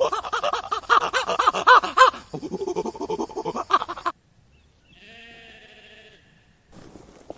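An animal calling: a fast run of pulsing calls for about four seconds, then a short break and one longer drawn-out call. A different, noisier sound starts near the end.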